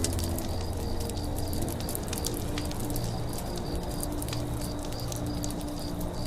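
Campfire crackling with frequent sharp snaps and pops over a steady low rumble. Doves coo softly in the background, and a high chirp repeats about three times a second.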